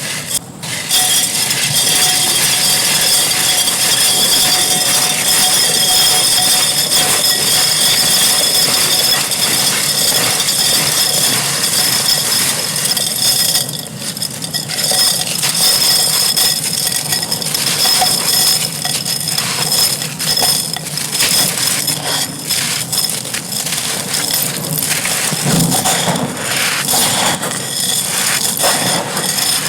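Dry clay pot being crumbled: a continuous gritty crunching with many small clicks of grains and fragments. It is dense and even at first, and after a short dip about halfway through it turns into more broken, separate crackles.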